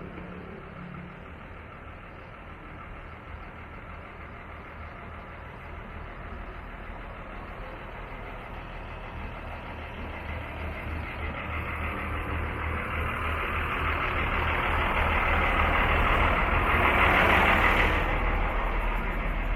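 A motor vehicle, engine and tyre noise, approaching and passing close by. The sound builds gradually, peaks loudest about seventeen seconds in, then falls away, over a low, evenly pulsing engine rumble.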